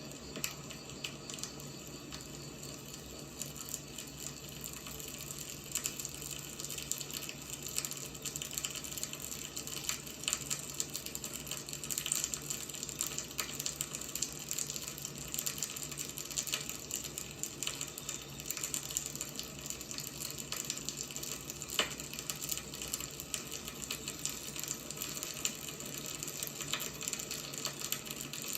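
Firewood burning, a steady hiss broken by frequent irregular crackles and pops.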